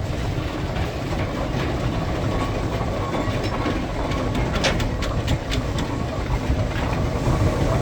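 Seven-horsepower compound Marshall steam traction engine running past with a steady low rumble, towing a dead engine, with a few metallic clanks about four and a half to five and a half seconds in.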